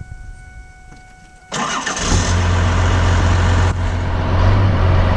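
Cold start of a Cummins inline-six turbo diesel swapped into a Ford F-250. After a faint steady tone, the starter cranks about a second and a half in and the engine catches half a second later, then runs loud and steady at a cold idle.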